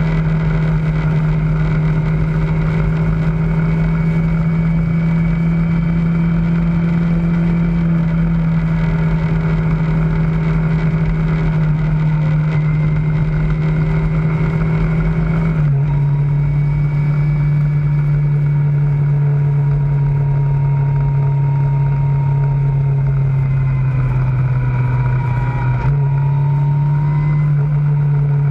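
Kawasaki ZZR600's inline-four engine running at steady cruising revs with a low wind rumble. The engine note drops a step about halfway through, dips lower a few seconds before the end, then rises again.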